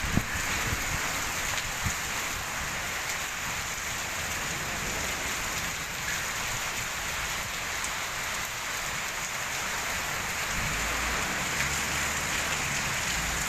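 Heavy rain pouring steadily, with a low rumble in the last few seconds.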